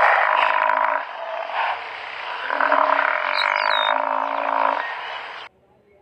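Buffalo calling: a long, rough, rapidly pulsing call that dips about a second in, swells again, and stops abruptly near the end. A short high falling whistle sounds twice above it.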